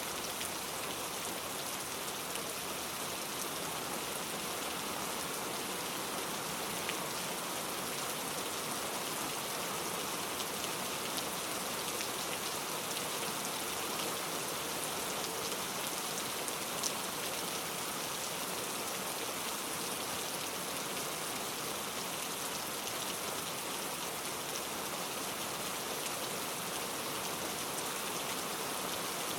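Steady rain falling, with a few individual drops ticking sharply on a surface now and then.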